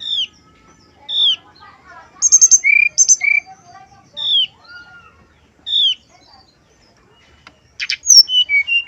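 Brown-chested jungle flycatcher singing: clear downslurred whistles repeated about once a second, mixed with short, high, quick trilled phrases and a fast rattling burst near the end.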